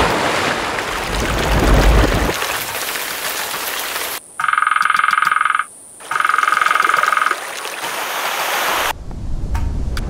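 Water splashing, then a steady watery hiss, broken in the middle by two pulsed frog calls of about a second and a half each.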